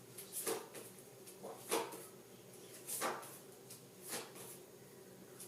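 Faint, short rustles and taps of paper flashcards being handled and turned over by hand, about five of them a second or so apart.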